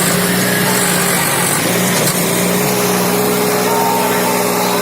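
Tractor diesel engine running steadily at a constant pitch.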